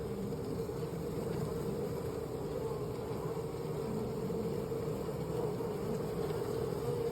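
Honeybees from the disturbed colony buzzing as a mass, a steady unbroken drone.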